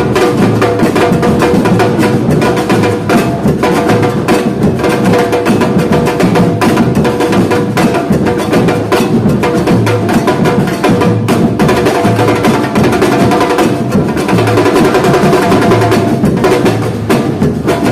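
Samba batucada drumming: a percussion group playing a dense, steady, driving beat with many sharp strokes.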